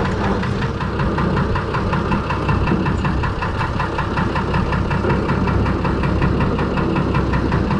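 Six-cylinder Perkins diesel engine in a Fordson Major tractor running steadily with an even knocking beat as the tractor drives in low range.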